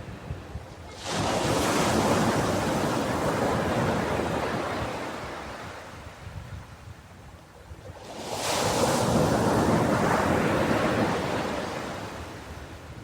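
Ocean waves breaking on a beach, two in turn: one crashes in about a second in and slowly washes out, and the next breaks about eight seconds in and fades away near the end.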